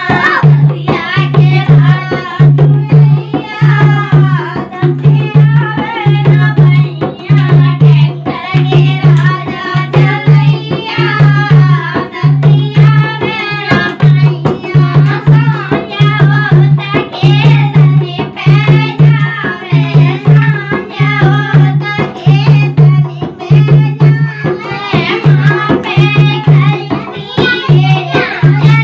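Indian village folk song: a voice singing over a steady, evenly repeating drum beat.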